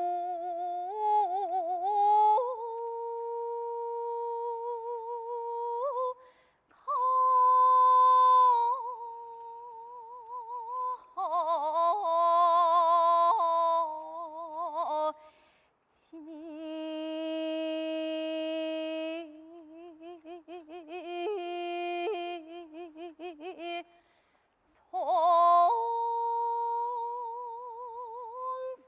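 A woman singing jeongga, Korean classical lyric song, with no accompaniment heard. She holds long notes with slow, wide vibrato and sliding ornaments, in phrases broken by three short pauses.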